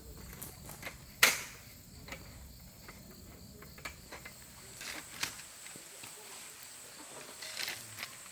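Insects, likely crickets, trilling as a steady high tone, with scattered small clicks and taps and one sharp loud click about a second in.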